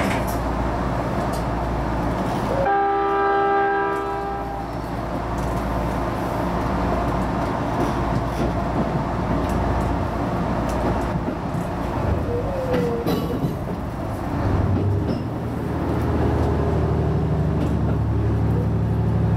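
HB-E210 hybrid diesel railcar running along the line, with one horn blast of about two seconds a few seconds in. A steady low hum comes in near the end.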